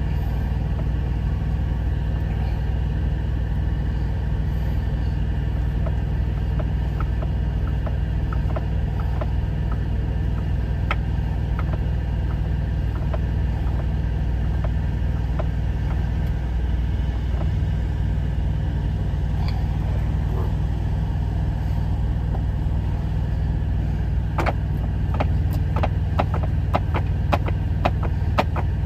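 Steady low rumble of an idling truck engine, heard inside the cab, with a run of small clicks and taps near the end.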